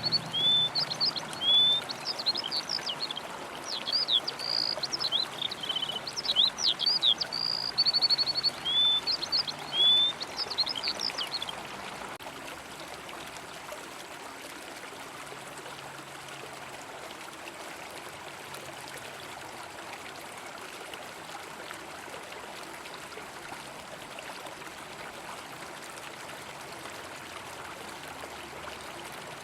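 A songbird singing a varied run of chirps, sweeps and short trills for the first eleven seconds or so, over the steady rush of flowing river water, which then goes on alone.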